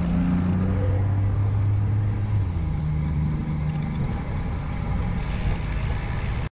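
A motor vehicle's engine running close by, mixed with the wind and road noise of a bicycle riding along a street. The sound cuts off suddenly near the end.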